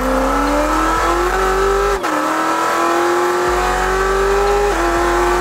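C7 Corvette V8 accelerating hard under load, its pitch climbing steadily through the gears. It upshifts about two seconds in and again near the end, the pitch dropping at each shift.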